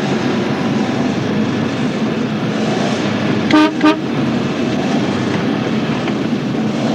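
Car engine running on methane gas from a manure digester, heard from inside the cabin as the car drives steadily along. About three and a half seconds in, a car horn gives a short double toot.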